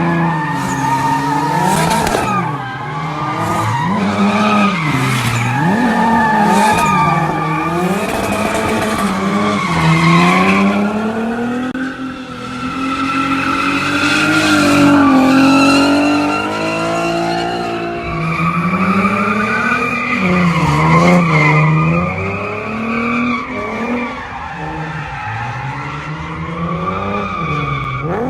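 Nissan 370Z's 3.7-litre V6 through a full ISR Performance exhaust, revving up and down over and over while the car drifts, with tyres squealing. There is one longer climb in revs about halfway through.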